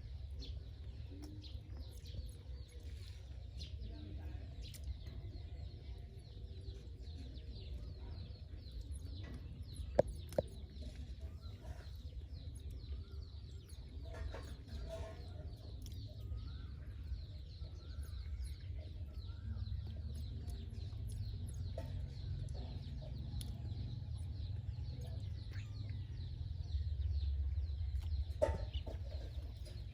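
Faint short animal calls over a steady low rumble, with a single sharp click about ten seconds in.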